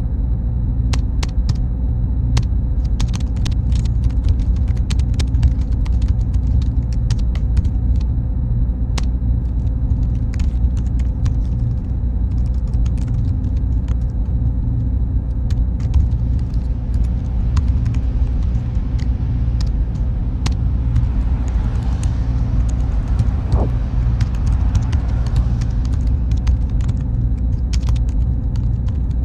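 Server room ambience: a deep, steady machine-and-fan hum with a faint constant whine, dotted with small scattered clicks.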